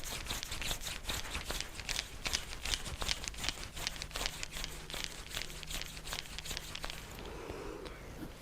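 Hands working over skin during a massage: a quick run of crinkly, crackling clicks, several a second, that thins out near the end.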